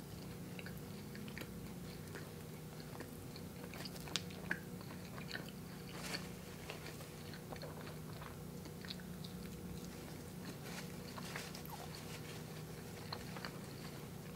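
Close-miked chewing of a mouthful of chocolate peanut butter cronut: faint, irregular wet mouth clicks and smacks, a few louder ones about four and six seconds in, over a steady low hum.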